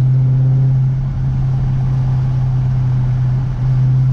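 Dodge Challenger Scat Pack's 392 HEMI V8 running steadily at cruising speed, heard inside the cabin as a constant low exhaust drone with road noise.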